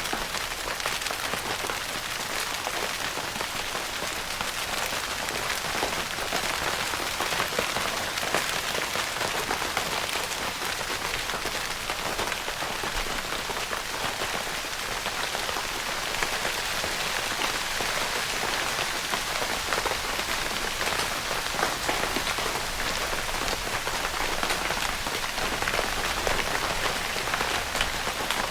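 Steady rain pattering on a tent's fabric roof, a dense even patter of many small drop ticks.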